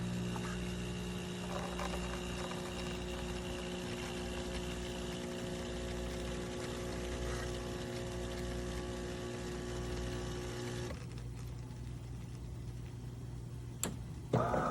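De'Longhi Dinamica Plus superautomatic espresso machine's pump running with a steady hum as it dispenses. The hum stops about eleven seconds in. A sharp click comes near the end, then a new whir starts.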